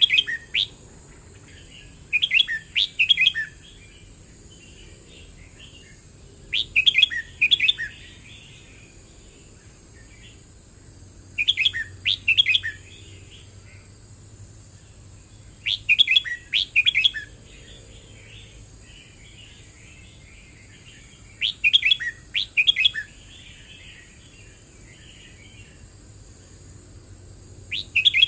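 Red-whiskered bulbul singing: a short, loud, warbled phrase about a second long, repeated every four to five seconds, about six times, with softer twittering between the phrases.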